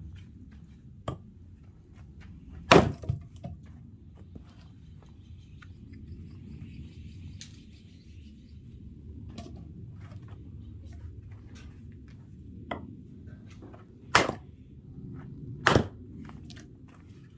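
An axe splitting oak firewood: three sharp, loud cracks, one about three seconds in and two close together near the end, with a few lighter knocks between them, over a low background rumble.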